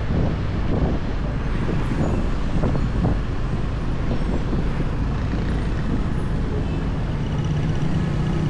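Motorbike riding along a highway: wind rushing over the microphone with road and traffic noise. A steady low engine drone comes up near the end.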